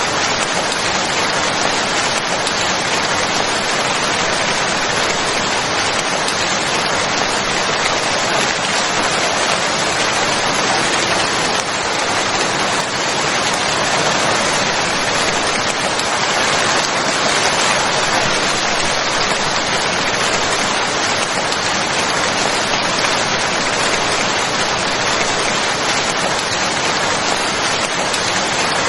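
Steady, even rain falling, a continuous hiss of drops with no breaks or changes.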